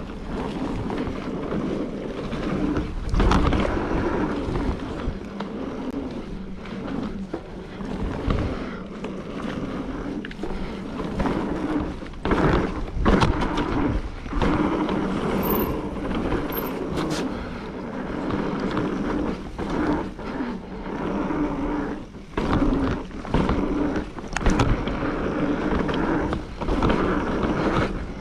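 Mountain bike rolling fast down a dirt trail: steady tyre noise on the dirt, broken again and again by sharp knocks and rattles as the bike hits bumps.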